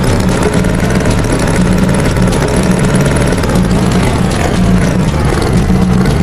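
Tractor engine sound effect running with a steady, chugging low throb.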